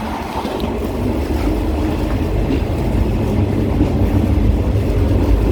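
Passenger train running along the track, a steady rumble of the coaches on the rails that grows slowly louder.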